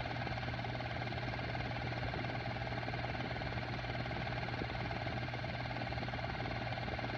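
Technicolor model 810 8mm cartridge projector running: a steady motor hum with a fast, even rattle from the film transport.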